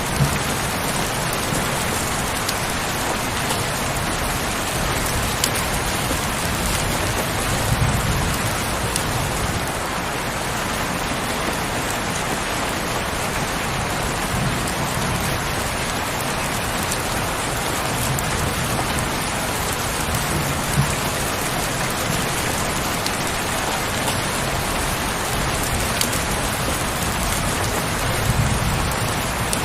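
Heavy rain falling steadily, with scattered sharper drop ticks. Brief low swells come about eight seconds in and again near the end.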